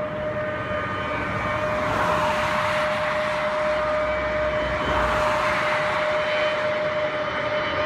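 Superbike engine noise with a steady high-pitched note over a rushing haze that swells twice.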